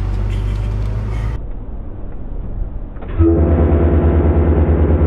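A motor vehicle's engine running with a low rumble, then a louder, steady, pulsing engine drone starting about three seconds in.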